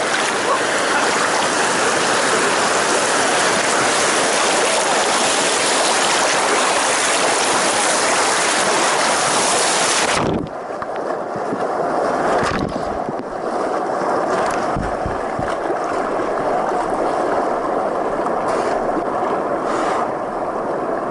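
Colorado River water rushing past a raft as a loud, steady hiss, which cuts off suddenly about halfway through to a quieter flowing-water sound with a few low thumps.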